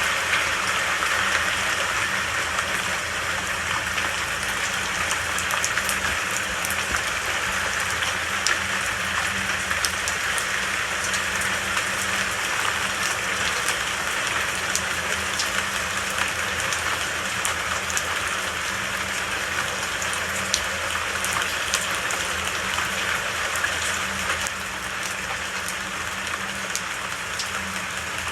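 Steady rain falling: an even hiss with scattered ticks of single drops. It gets slightly quieter about 24 seconds in.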